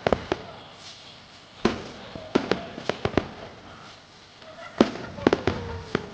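Fireworks display: aerial shells bursting in about a dozen sharp bangs at irregular intervals, several coming in quick clusters a couple of seconds in and again near the end.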